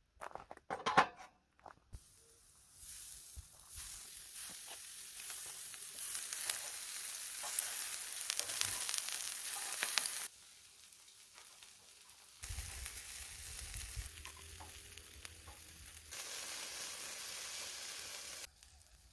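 Steady sizzling and hissing from a gas barbecue fire pit, which cuts in and out abruptly several times, with a low rumble under it in one stretch. A few sharp knocks come about a second in.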